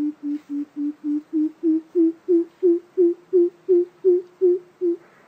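Coucal calling a long series of deep, hollow hoots, about three a second and slowing slightly, ending about five seconds in.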